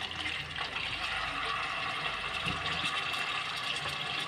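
Raw chicken pieces frying in hot oil in a karahi, a steady sizzle as more pieces go into the pan.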